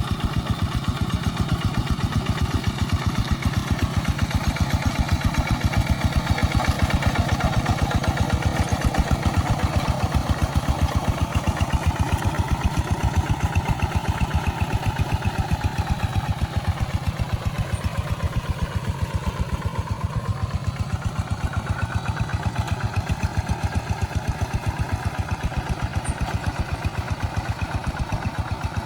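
Rice-field tractor's engine running steadily, with a rapid, even beat of firing pulses.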